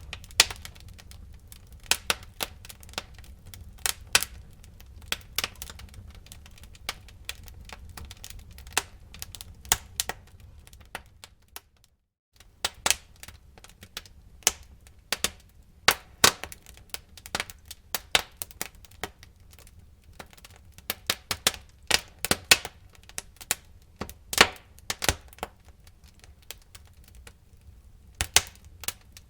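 Wood fire burning in a fireplace, crackling with many irregular sharp pops over a low steady rumble of the flames. The sound cuts out for a moment about twelve seconds in, then the crackling resumes.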